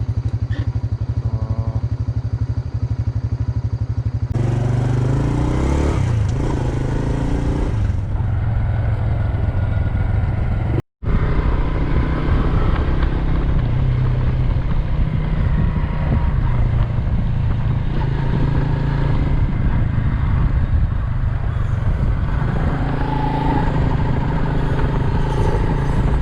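Honda Super Cub's single-cylinder four-stroke engine running on the road. Its note shifts about four seconds in, and the sound cuts out briefly at about eleven seconds before the engine continues.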